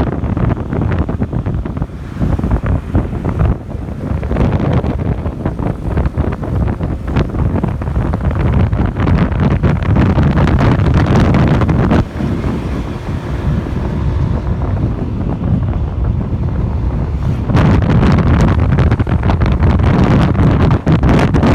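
Wind buffeting the microphone of a motorcycle riding at speed, with engine and road noise beneath; the rush gets louder near the end.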